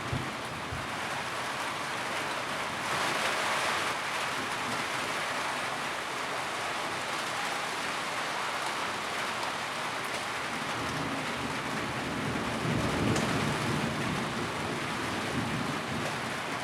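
Steady rain drumming on a tin roof, swelling briefly about three seconds in, with a low rumble rising and fading in the second half.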